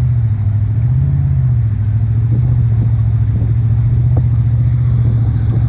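A motor engine running steadily with a low, even drone; its pitch rises briefly about a second in, and a few faint clicks come on top.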